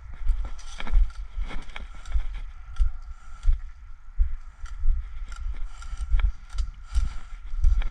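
Irregular heavy footfalls, about two a second, with short clicks and rattles of gear: a player walking or jogging with the camera riding on him.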